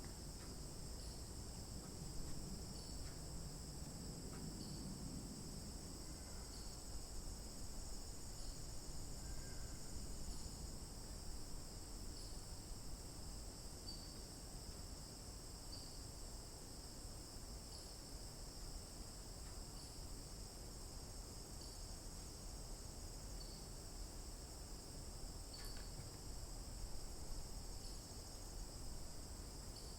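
Steady, high-pitched insect chorus of crickets, with a few short faint chirps over it.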